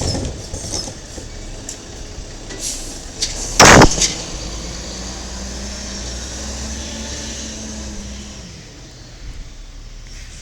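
Diesel engine of a 1995 Peterbilt 310 automated side-loader garbage truck running steadily. A single short, loud burst comes a little under four seconds in, followed by a steady low hum for about four seconds.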